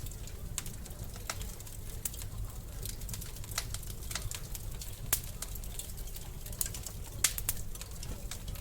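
Wood fire crackling in a fireplace: irregular sharp pops and snaps over a low steady rumble, with a few louder pops about five and seven seconds in.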